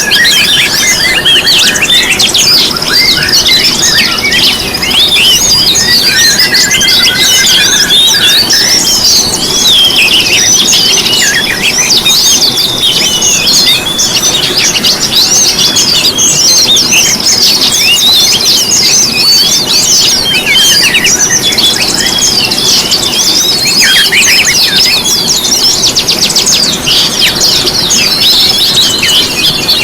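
Dense, unbroken chorus of many small songbirds chirping, trilling and whistling over one another, a mixed cage-bird lure recording meant to set other birds singing.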